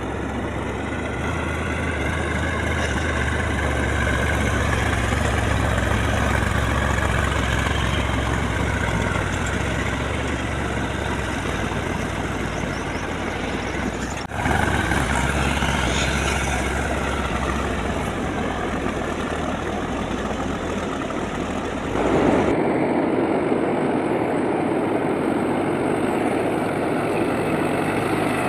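New Holland 3600-2TX tractor's three-cylinder diesel engine running steadily. The sound changes abruptly twice, about halfway and about three quarters of the way through.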